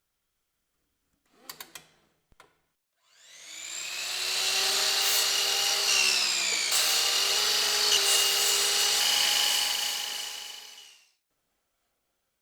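A power tool running against wood for about eight seconds, swelling in and dying away, its tone dipping briefly partway through as it is loaded. A few light clicks come just before it.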